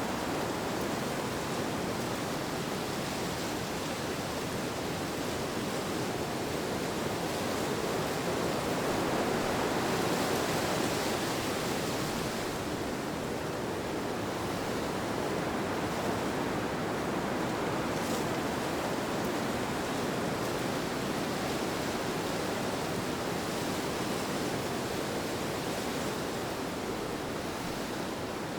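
Steady wind, an even rushing noise that swells slightly about ten seconds in.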